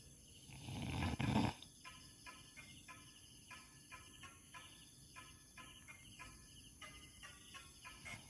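Night ambience: steady high-pitched insect trilling, with a run of short repeated chirping calls, about two to three a second. A louder low rumble comes about a second in.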